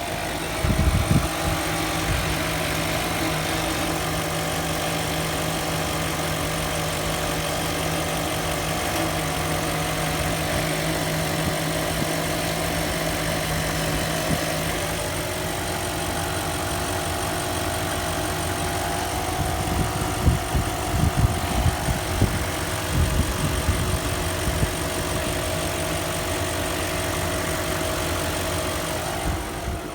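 2003 Range Rover engine idling with a steady whine, which the owner traces to the lower timing chain cover area after new timing chains and guides were fitted. A run of irregular low thumps comes about twenty seconds in.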